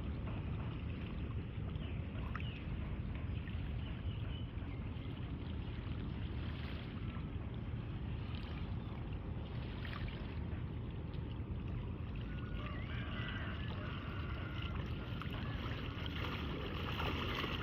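Steady low rumbling noise with faint water sounds.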